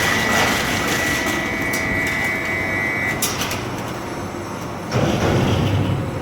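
A 1500-type dual-shaft industrial shredder running and tearing up washing machines: a continuous grinding noise broken by sharp cracks of metal. A steady high whine stops about three seconds in, and the grinding surges louder about five seconds in.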